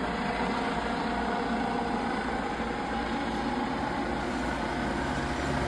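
Engine running steadily at an even pitch.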